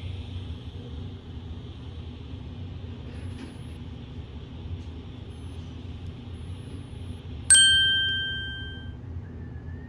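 A single bright metallic ding about seven and a half seconds in, ringing out over a second or so, over a steady low hum.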